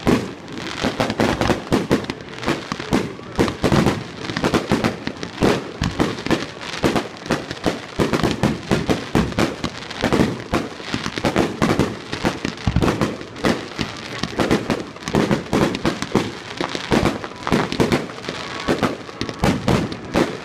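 Fireworks display: aerial shells launching and bursting in a rapid, unbroken barrage, many bangs a second overlapping one another.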